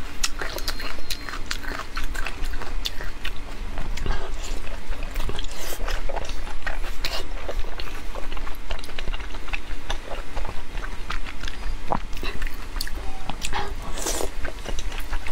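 Close-miked wet chewing and lip-smacking of fatty braised pork in a thick sticky sauce: a dense run of small sticky mouth clicks, with a louder bite about a second before the end.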